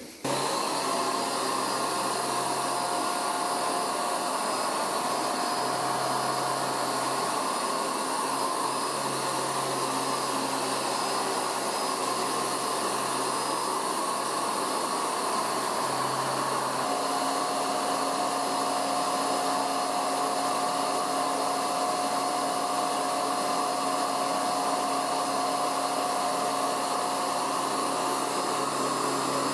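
Hoover UltraMATT mattress vacuum cleaner switching on and running steadily with a constant motor whine; its tone shifts slightly partway through.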